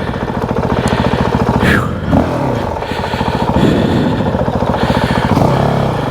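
Motorcycle engine running with a rapid, even beat, just restarted after the bike flamed out and stalled in a crash.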